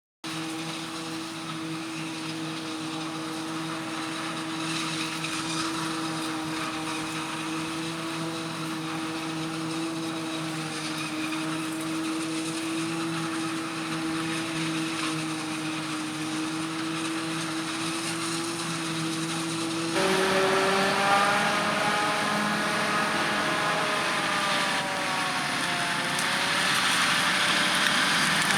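Harvest machinery running: a steady engine note with a constant whine for about twenty seconds, then an abrupt change to a louder machine whose pitch dips and comes back up near the end.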